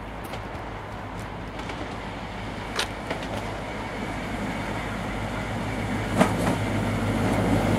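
Class 43 HST diesel train approaching head-on, its engine hum growing steadily louder as it nears, with a couple of sharp clicks along the way.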